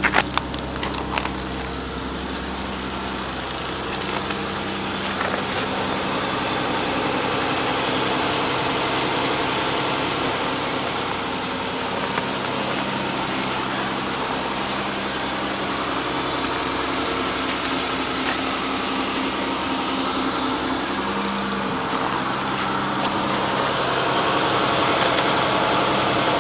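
2005 Mercury Sable's 3.0-litre Duratec V6 idling steadily, still cold from a start at about 10 °F. A few sharp clicks sound in about the first second.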